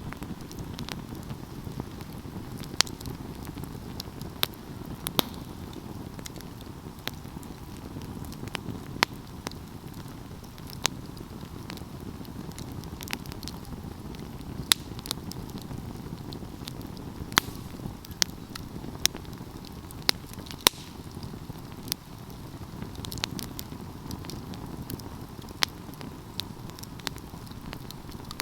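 Wood fire burning: a steady low rush of flames with sharp crackles and pops at irregular intervals, a few every couple of seconds.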